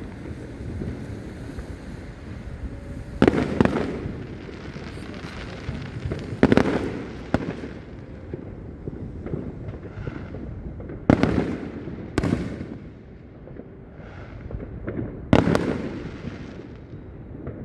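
Aerial fireworks going off: about six sharp loud bangs a few seconds apart, each trailing off in a low rumbling echo, with fainter pops in between.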